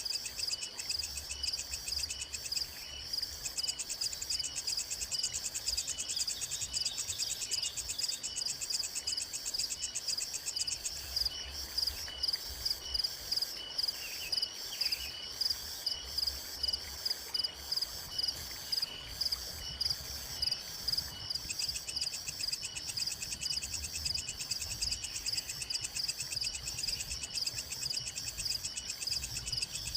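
A chorus of insects chirping, with a steady high-pitched trill and faster pulsing above it. Through the middle a louder call repeats a little over once a second.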